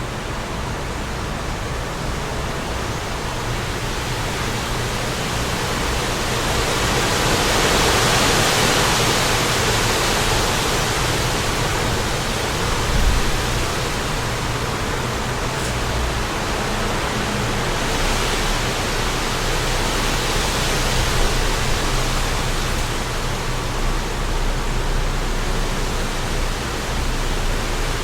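Wind blowing in gusts, a steady rushing that swells louder about a third of the way in and again later.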